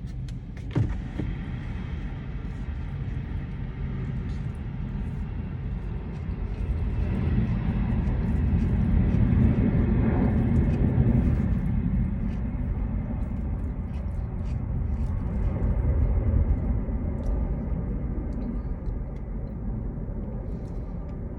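Jet airliner passing low on its landing approach: a low rumble that swells to its loudest about ten seconds in and slowly fades. A short knock sounds about a second in.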